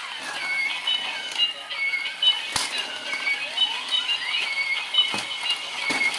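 A simple electronic beeping tune: short high notes stepping between a few pitches, with sliding whistle-like pitch sweeps and a few sharp clicks.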